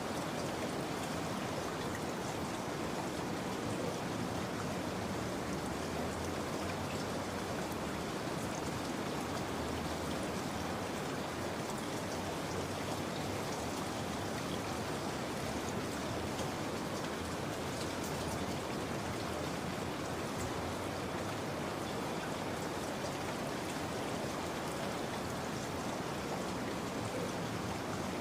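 Steady rain falling, with fine scattered raindrop patter.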